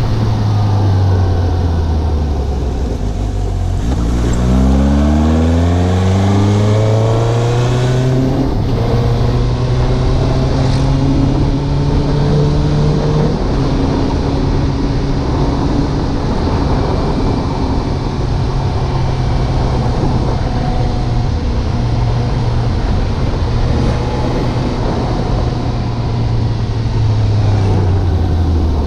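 Suzuki GSX750 motorcycle's inline-four engine under way. The engine note falls, then climbs steeply from about four seconds in as the bike accelerates, then holds fairly steady with brief dips. Wind noise runs over the microphone.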